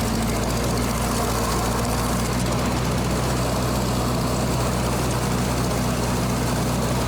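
Ford 8N tractor's four-cylinder engine running steadily under load while cutting a field in third gear.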